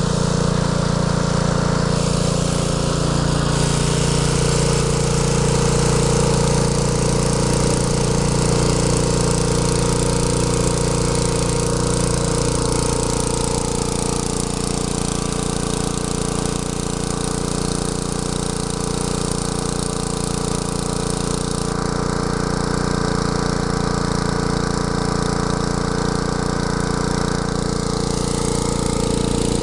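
A 6 HP Tecumseh single-cylinder engine on a 1967 Wheel Horse garden tractor running steadily. Its low note shifts about twelve seconds in.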